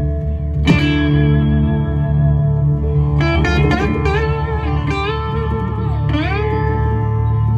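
Live band jamming: an electric guitar plays lead, with a loud struck note just under a second in and later notes that bend and slide in pitch, over steady held low notes.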